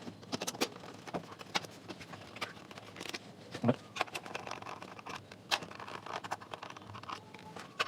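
Scattered light clicks and knocks of hands and tools working on a JBL Jembe speaker's housing as it is taken apart, with one louder knock about three and a half seconds in.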